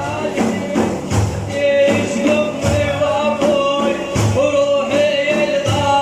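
Religious praise music: a sustained, wavering male sung line over frame drums struck in a repeating rhythm.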